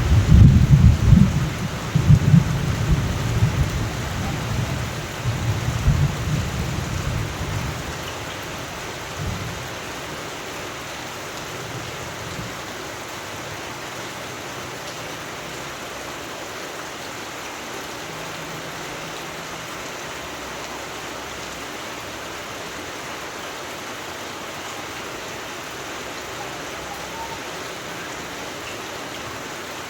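Steady rain with a long, loud rumble of thunder that fades away over the first several seconds, leaving only the even patter of the rain.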